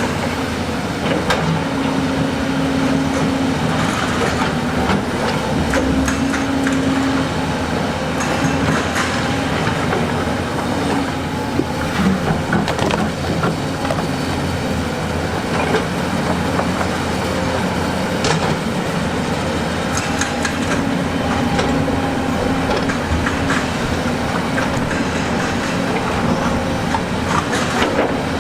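Diesel engine of a tracked earthmoving machine running steadily, with irregular clanks and knocks of steel and rock throughout as it works stone.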